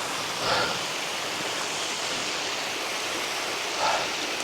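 Steady rushing of creek water over rocks, an even hiss with no pauses.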